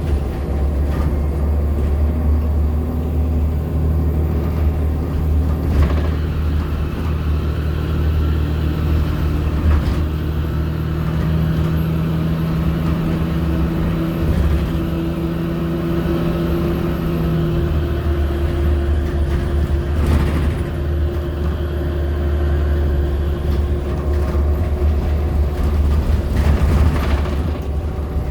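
Inside a 2014 Nova Bus LFSA hybrid bus (Cummins ISL9 diesel with Allison H40 EP hybrid drive) under way: a steady low drone with whining tones that climb in pitch, one dropping out about two thirds of the way in. A thin high-pitched squeal runs throughout, the squeal the rider says sets in whenever the bus reaches 35 mph.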